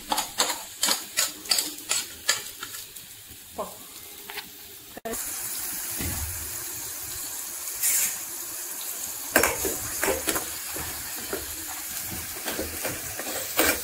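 Quick metal taps and scrapes, several a second, as spice is shaken and stirred into a masala in a small kadai. After a cut about five seconds in, the masala sizzles steadily in hot oil, with a few more spoon taps.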